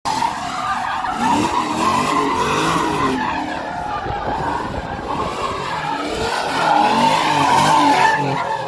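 Fox-body Mustang with a swapped-in LS3 V8, the engine revving up and down again and again while the rear tyres squeal in a continuous screech as the car spins donuts. The squeal grows a little louder near the end.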